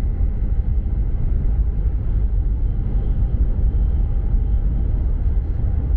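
E5 Series Shinkansen running, heard from inside the passenger cabin as a steady low rumble.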